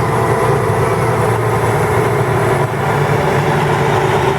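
Mud-bogging truck's engine running at a steady speed, with no revving up or down.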